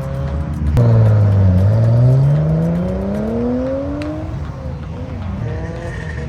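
A car engine accelerating hard: it comes in suddenly about a second in, dips briefly, then rises steadily in pitch for about three seconds before fading off.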